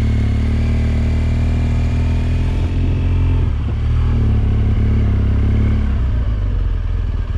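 Motorcycle engine running under way with a steady low note, which changes pitch about halfway through and again near the end, as with throttle or gear changes.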